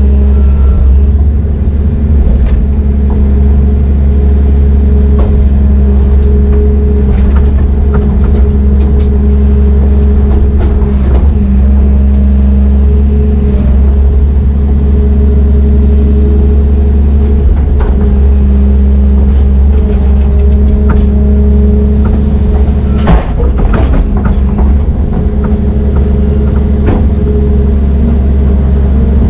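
Brøyt X21 excavator's diesel engine running steadily and loud, with scattered clanks and one sharper knock about 23 seconds in.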